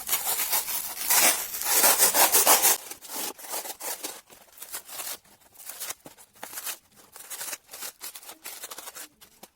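A blade cutting through a hardened foam blank: loud rasping for about the first three seconds, then a string of short, irregular scraping strokes as the cut goes on.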